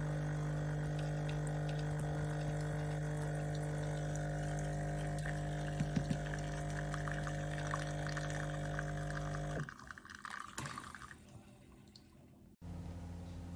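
Espresso machine's pump running steadily with a low hum while liquid flows, cutting off sharply about ten seconds in; a few soft knocks follow, and a different steady machine hum starts near the end.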